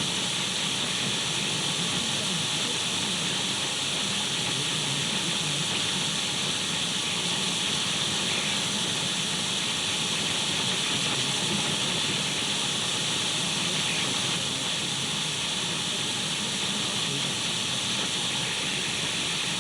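Radio static: a steady, even hiss of an untuned radio, brightest in the upper register, with faint steady whistle tones above it.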